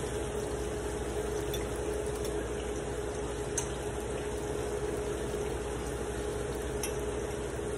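Ripe plantain slices sizzling steadily in hot oil in a frying pan, under a steady hum, with a few light clicks as the slices are turned.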